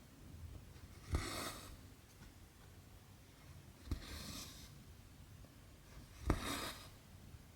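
Needle pushed through cross-stitch fabric and cotton thread drawn through after it, three times about two and a half seconds apart: each stroke is a sharp tick followed by a brief rasp of thread sliding through the cloth.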